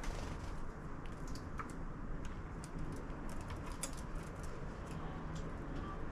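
Small animals feeding at a 3D-printed plastic bird feeder: irregular light clicks and taps, over a steady low background rumble.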